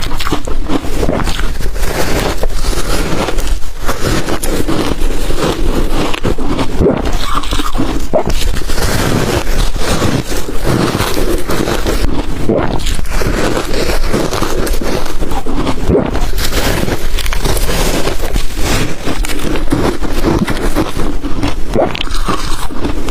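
Ice being bitten and crunched close to the microphone, a continuous run of loud crackling crunches with many sharp bites.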